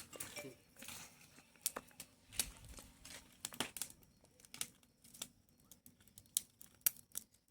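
Wood bonfire crackling, with sharp irregular pops, as the fire takes hold.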